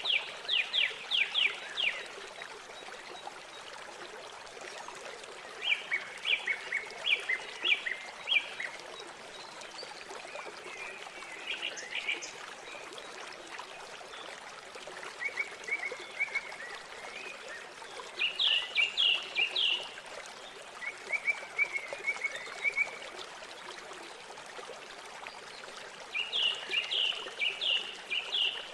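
River water flowing steadily, with a songbird singing short phrases of rapid repeated high notes every few seconds.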